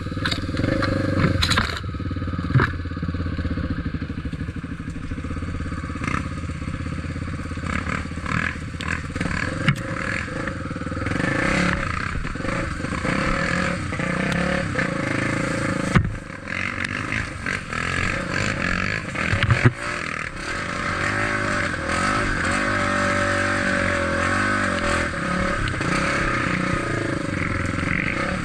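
Trail motorcycle engine running, its pitch rising and falling with the throttle, with scattered knocks and rattles.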